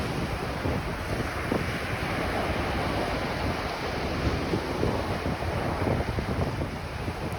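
Ocean waves washing onto a beach, with wind buffeting the microphone.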